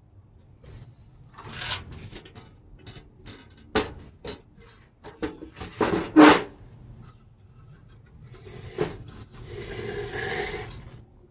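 Irregular knocks and short rubbing scrapes of objects being handled, the loudest knocks a little after six seconds in, then a longer scrape near the end.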